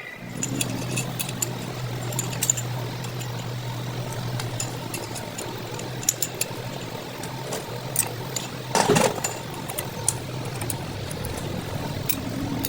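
A steady low motor hum with scattered sharp metallic clicks and clinks, and a louder rattling burst about nine seconds in.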